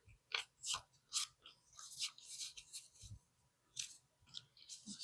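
Paper banknotes being handled, rustling and crinkling in short, irregular bursts.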